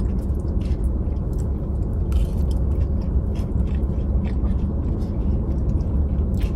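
Close-up chewing of a burrito bowl, with many short wet clicks and smacks, over a steady low rumble in the car cabin.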